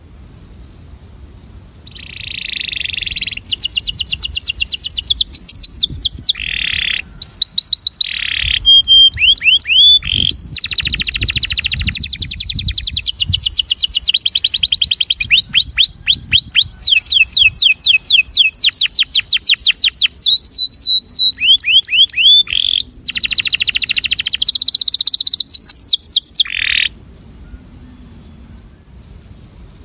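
Male domestic canary singing its courtship song: fast trilled phrases of rapidly repeated, downward-sweeping high notes, broken by brief pauses. The song starts about two seconds in and stops near the end.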